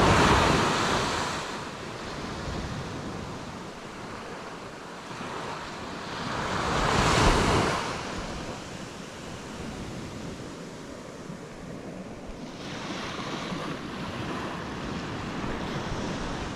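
Surf washing onto a beach: three waves swell and fade, the loudest near the start and about seven seconds in, with a longer, gentler one near the end.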